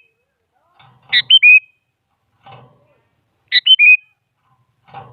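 Sooty-headed bulbul (kutilang) singing its loud, short whistled phrase twice: a sharp high note followed by two quick down-slurred whistles. Fainter rough, noisy sounds come between the phrases.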